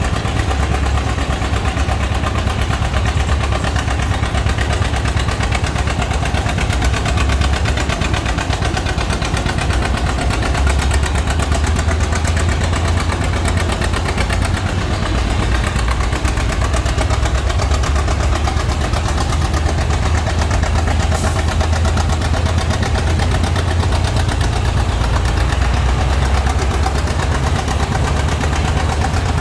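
Antique tractor engine running steadily at idle close by, a constant low drone with no revving.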